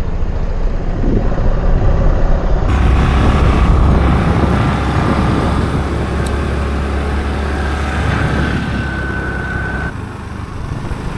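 Motorbike engine running with wind rushing over the microphone while riding; the engine gets louder about three seconds in and drops back near the end.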